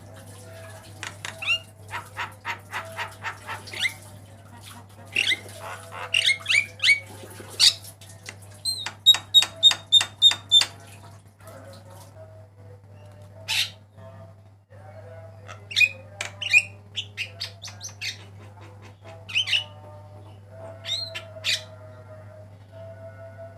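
Javan myna singing in bursts of harsh squawks, whistles and sharp clicking notes, with a quick run of about eight repeated notes in the middle, over a steady low hum.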